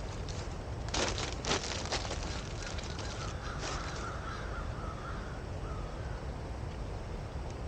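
Wood campfire crackling, with a few sharp pops in the first half, over a steady low rumble. A wavering high call sounds for a few seconds midway.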